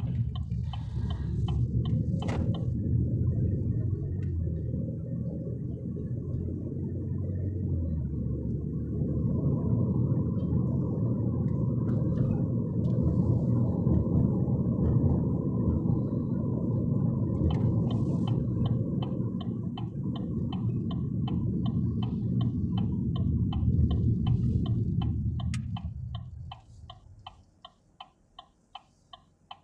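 Inside a moving car's cabin: a steady low rumble of road and engine noise. About two-thirds of the way in, the turn signal starts clicking at a quick, even rate. Near the end the rumble dies away as the car slows, leaving only the indicator's clicks.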